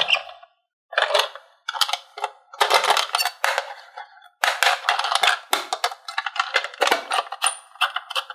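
Plastic and diecast toy pieces clattering and clicking as they are handled, in quick runs of sharp clicks with short pauses between them.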